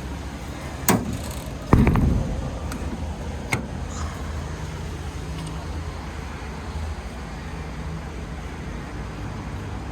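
A sharp knock, then a louder slam less than a second later and a lighter click after that, over a steady low rumble.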